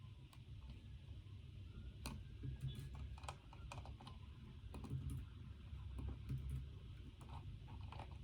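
Typing on a computer keyboard: irregular runs of keystrokes, busiest about two seconds in and again about five seconds in, over a low steady room hum.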